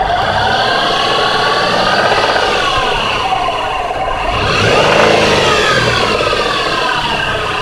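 2004 Jeep Liberty engine revved twice from idle, the pitch rising and falling, with a smaller rev about two seconds in and a bigger one about five seconds in, over a clacking noise that comes up when it is revved.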